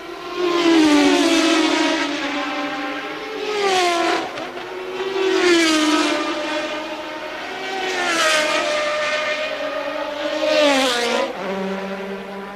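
Early-1980s Formula One race car engine at high revs, its pitch rising and falling several times, with sharp drops about four seconds in and near the end.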